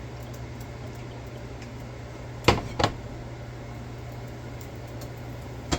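Kitchen cooking sounds: a steady low hum under a faint even hiss, with two sharp knocks of cookware about two and a half seconds in and a smaller one near the end.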